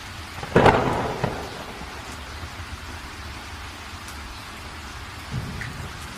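Steady rain with a sudden thunderclap about half a second in that rumbles away over the next second; a smaller rumble of thunder comes near the end.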